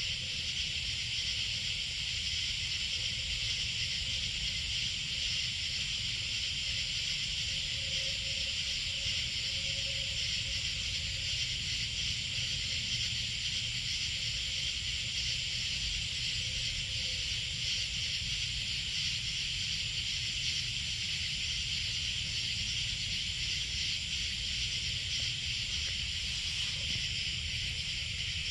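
Steady chorus of night insects: a continuous high buzz with a thinner, higher band above it, over a low steady rumble.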